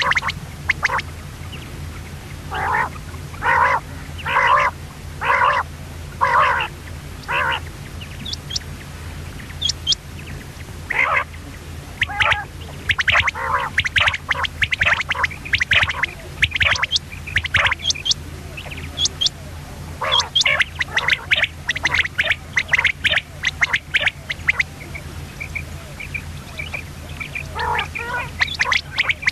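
Common quail calling: a run of about six short, evenly spaced calls a few seconds in, then a busier stretch of quicker, varied calls through the middle and again near the end. A steady low hum runs underneath.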